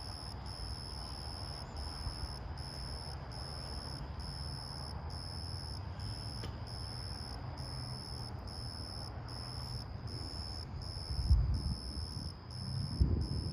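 Crickets chirping in a steady, even rhythm, a little more than one chirp a second. Underneath is a low rumble that swells twice near the end.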